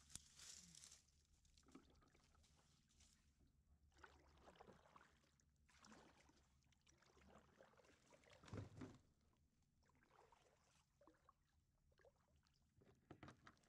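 Faint kayak paddle strokes swishing through the water, one every second or two, with a heavier stroke a little past the middle.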